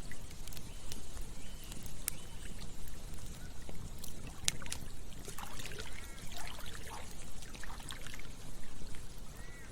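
Campfire crackling, with sharp scattered pops and snaps, over a steady rush of flowing river water. A few short chirping calls come in around the middle.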